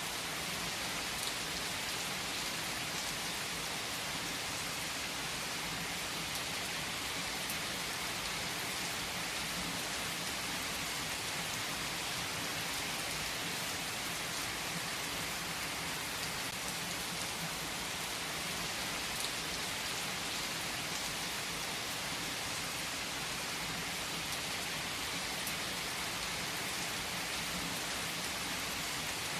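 Steady rain falling on a hard surface, an even hiss with scattered faint drop ticks.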